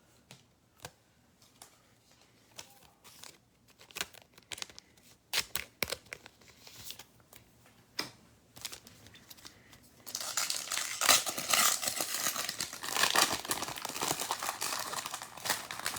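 A few scattered faint clicks of cards being handled, then about ten seconds in a continuous crinkling as a foil trading-card pack wrapper is torn open.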